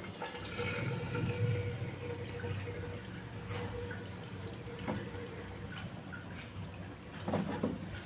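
Water running and splashing into a washing machine, with a few small knocks.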